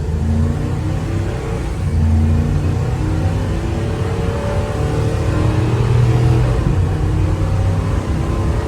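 2016 Ford E350 box truck's engine pulling hard at about two-thirds throttle, heard from inside the cab. Its pitch changes in steps as the automatic transmission moves through its gears.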